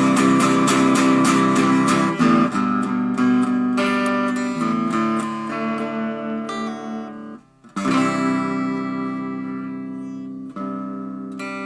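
Guitar strumming chords, at first quickly and evenly, then slowing. There is a short break, then a chord is struck and left to ring out and fade, with another strum near the end, as when a song is being brought to a close.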